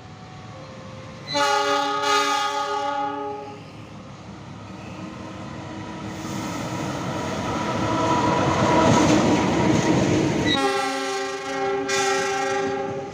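Pangrango passenger train's locomotive horn sounding two blasts of about two seconds each, one about a second in and one near the end. Between them the train's running and wheel noise builds up as it passes.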